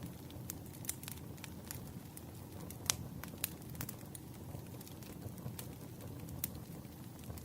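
Firewood burning, a steady low rumble with irregular crackles and pops, the sharpest pop about three seconds in.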